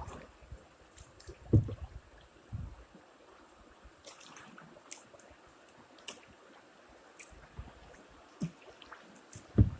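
Kayak paddling: water dripping and trickling off the paddle, with scattered small splashes and two low thumps, one about a second and a half in and one near the end.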